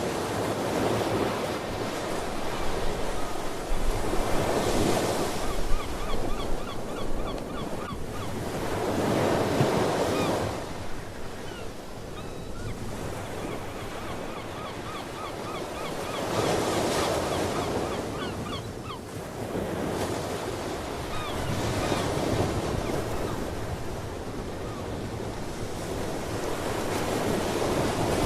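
Ocean surf, waves rushing in and washing back every few seconds, with sea birds calling in quick runs of short repeated notes through the middle stretch.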